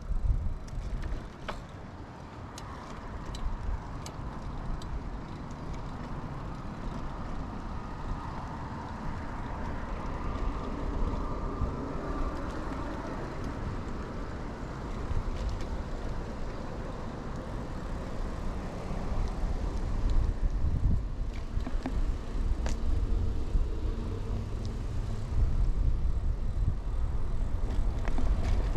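Riding sounds of a 2000 Kona Blast mountain bike: tyres rolling on pavement with wind buffeting the microphone, the low rumble strongest at the start and again from about two-thirds of the way through, and a few sharp clicks now and then.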